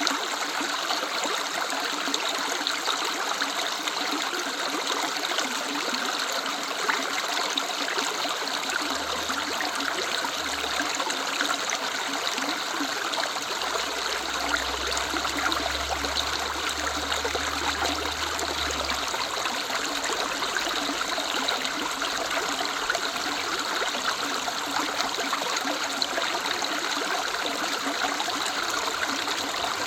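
River running steadily, a continuous rush of flowing water.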